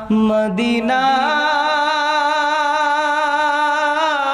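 A voice singing a Bengali Islamic devotional song about Madina: it sings the word 'Madina' and, about a second in, holds a long note with a steady vibrato.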